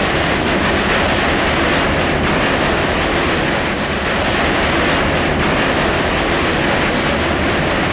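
Heavy rain beating on a tour coach's windscreen, heard from inside the moving coach along with the steady low rumble of the engine and tyres on the wet road. The noise holds steady throughout.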